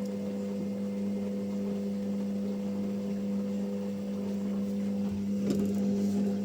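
Washing machine running with a steady electric hum that cuts off at the very end.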